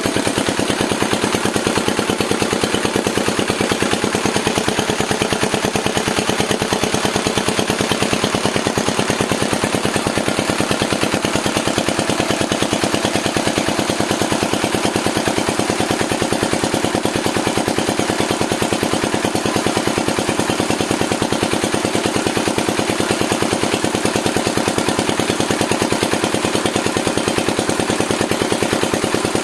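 Small diesel "shallow pump" engine running steadily at a constant speed, with a fast, even chugging beat.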